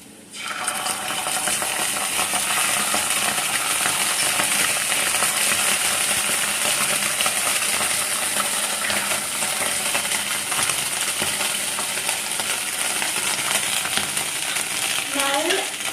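Hot oil sizzling loudly and steadily in a frying pan, with fine crackling, as chopped garlic and green chilli fry for a sauce. The sizzle starts suddenly about half a second in.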